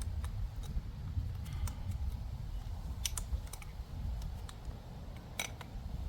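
Irregular light clicks and taps of metal parts and hand tools being handled, about half a dozen spread over a few seconds, over a steady low rumble.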